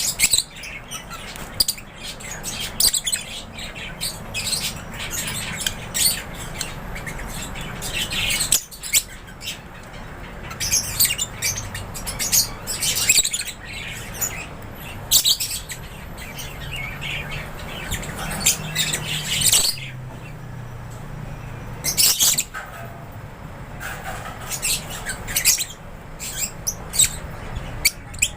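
A flock of African lovebirds chattering without pause, with sharp high chirps and squawks overlapping at irregular intervals. A low steady hum runs underneath.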